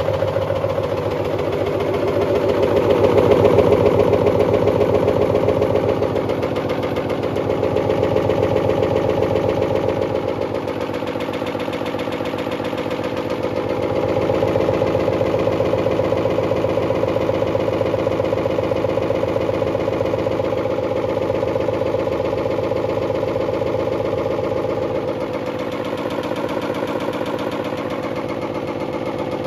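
Washing machine running, with a steady motor hum and the drum turning in a fine, rapid pulsing that swells and eases slightly in loudness.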